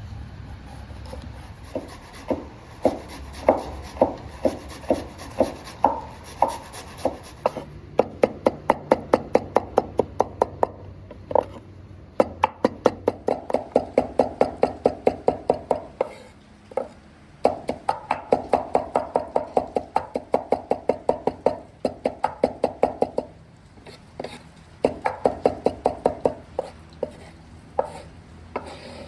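A knife chopping on a cutting board: slower single strokes at first, then fast runs of about six or seven strokes a second, broken by short pauses.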